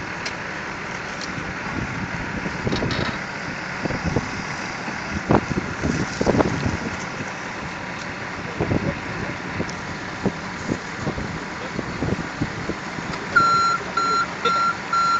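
Heavy truck engine running steadily, with scattered short knocks and clanks. Near the end a backup alarm beeps rapidly, about five times.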